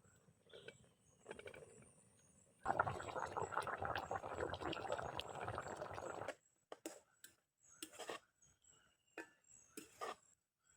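Water pouring for about three and a half seconds, starting and stopping abruptly, with a few light knocks and clinks before and after.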